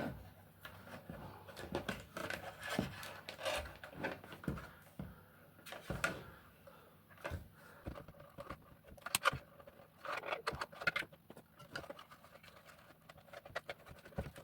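Close handling noise of an LED light strip being fed through a 3D-printed plastic mask: irregular scrapes, light clicks and rustling.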